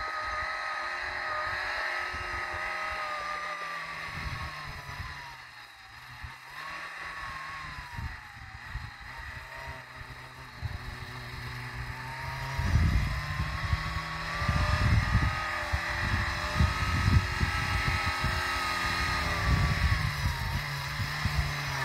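Suzuki Samurai engine working hard as the 4x4 pushes through deep snow, its pitch rising and falling with the throttle. The engine note sags around five seconds in, then climbs and grows louder from about twelve seconds on.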